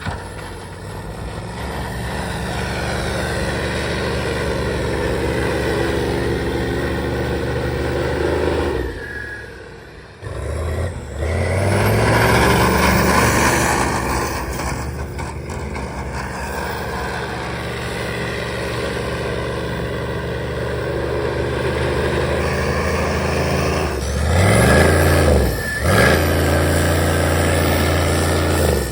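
Truck engine running under load while driving through sand, mostly steady. Its pitch rises and falls with revving about a third of the way in and again near the end.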